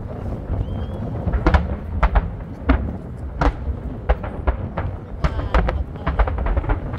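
Fireworks display: sharp bangs of bursting shells at irregular intervals, sometimes several in quick succession, over a continuous low rumble.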